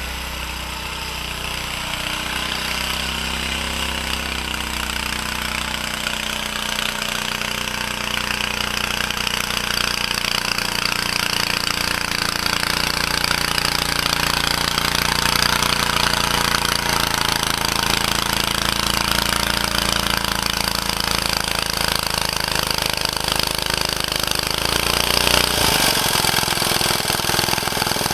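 Small engine of a 1949 Bready walk-behind garden tractor running steadily under load while it pushes heavy wet snow. It grows a little louder after the first few seconds, and its note shifts near the end.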